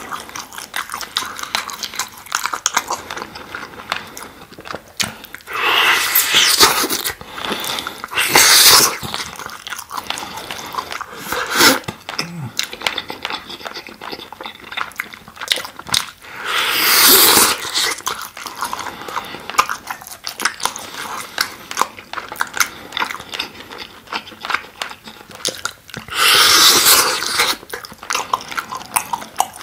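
Close-miked eating of sauce-glazed grilled chicken skewers, with many small mouth clicks of chewing throughout. Four louder bites, each about a second long, come about 6, 8½, 17 and 27 seconds in.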